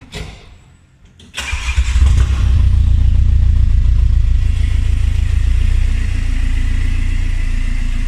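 VW Amarok engine with a full custom exhaust starting up. It catches suddenly about a second and a half in, flares briefly, then runs on with a steady, deep exhaust note.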